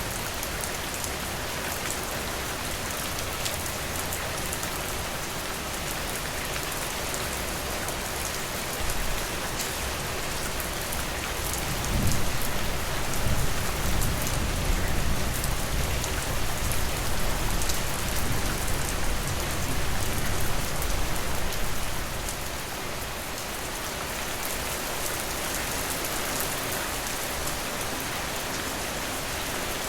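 Steady rain falling, with a dense patter of drops. About a third of the way in, a low rumble of distant thunder rolls for roughly ten seconds and then fades back into the rain.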